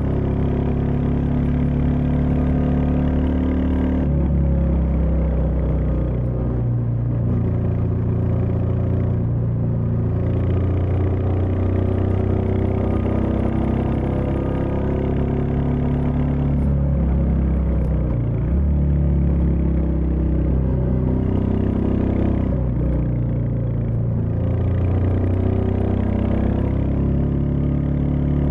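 Royal Enfield Meteor 350's 349 cc single-cylinder engine running on the move, its pitch falling and climbing again several times as the rider shifts gears and works the throttle.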